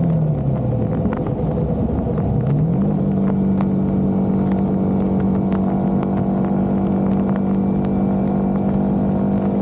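Yamaha R15's single-cylinder four-stroke engine running under way over a steady rush of wind and road noise. Its pitch drops in the first second as the throttle eases, climbs back about two and a half seconds in, and then holds steady at cruising speed.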